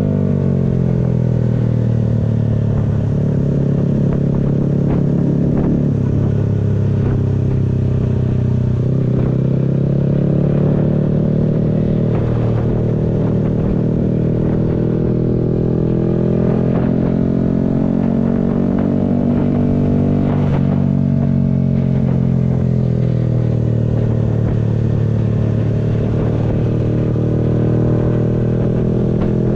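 Yamaha MT-125's single-cylinder engine under way, its note falling, then climbing again several times as the throttle is opened, with a sudden drop about twenty seconds in. A low rush of wind runs underneath.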